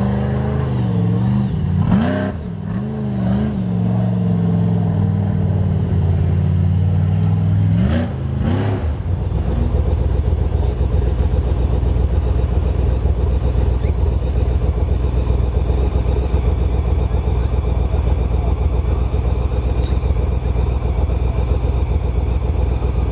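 Toyota FJ45 off-road truck engine revving up and down several times. About nine seconds in, it changes to a steady, lower rumble that holds for the rest.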